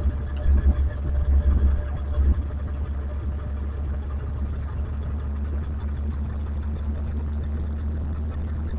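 Motorcycle ride noise: a low rumble of engine and wind on the bike-mounted camera's microphone. It comes in uneven gusts for the first couple of seconds, then settles into a steady drone.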